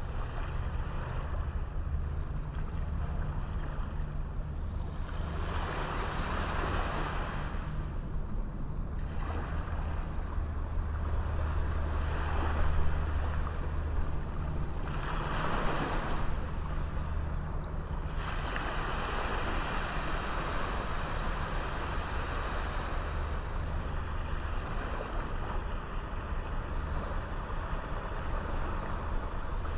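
Small sea waves breaking and washing up a beach, the wash swelling and falling several times over a steady low rumble.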